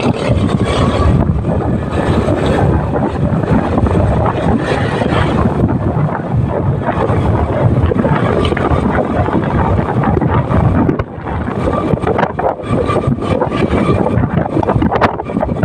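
Wind buffeting the microphone on a moving motorcycle, loud and rough, with the ride's road and engine noise underneath. There is a brief drop in the noise about eleven seconds in.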